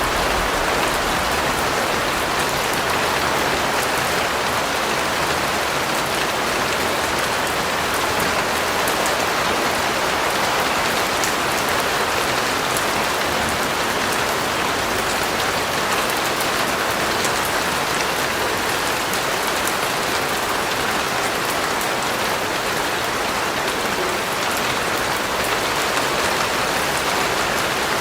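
Steady rain falling, a constant even hiss with fine scattered drop patter.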